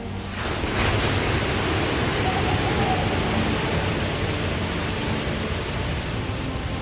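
Steady rush of a waterfall, an even hiss of falling water that swells in about half a second in and then holds.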